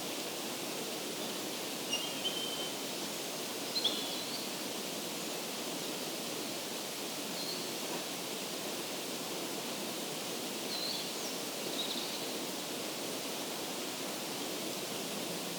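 Steady rushing outdoor background noise, with a few faint, short bird chirps scattered through it.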